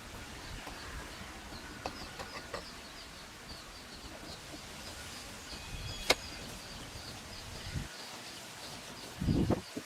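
Outdoor ambience with a rapid high chirping, about three or four chirps a second. There is a sharp click about six seconds in and a low thud near the end.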